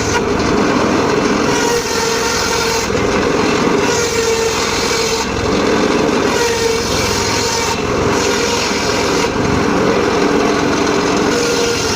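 Homemade bench-mounted circular saw running steadily while sawing teak. Its sound shifts every second or two as the cut goes on.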